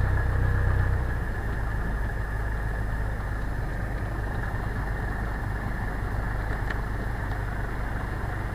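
Cessna 172's piston engine and propeller running steadily at low power in the cockpit, holding on the runway before the takeoff roll.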